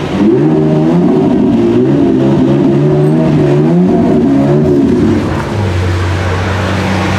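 Lamborghini Aventador SVJ's 6.5-litre V12 being revved while stationary, a run of quick throttle blips with the pitch rising and falling repeatedly. About five seconds in, it drops back to a steady idle.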